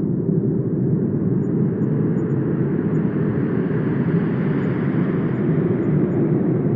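Wind blowing in a steady, low rush that swells in brightness toward the middle and eases off near the end.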